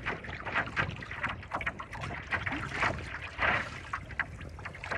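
Choppy sea water splashing and slapping irregularly against a paddleboard, with wind rumbling on the microphone.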